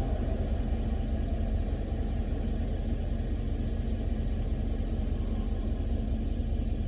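A vehicle engine idling steadily: a continuous low drone with no change in pitch.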